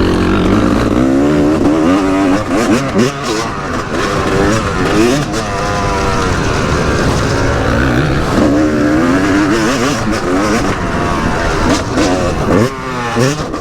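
Yamaha YZ250 single-cylinder two-stroke motocross engine being ridden hard, revving up and falling off over and over as the throttle is worked, with a sharp drop and quick climb in pitch near the end.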